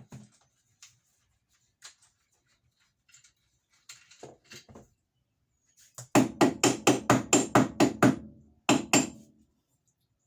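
A quick run of about a dozen sharp hammer knocks, roughly five a second, then a short pause and two more, with lighter clicks and knocks of tool handling before them.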